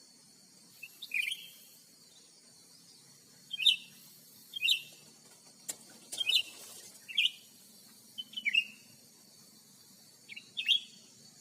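Cucak ranting bird giving short, sharp chirping calls, one every second or two, with a single sharp click partway through.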